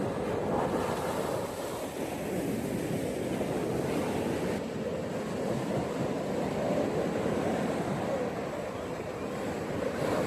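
Ocean surf washing onto a beach, a steady rushing noise with gentle swells in loudness.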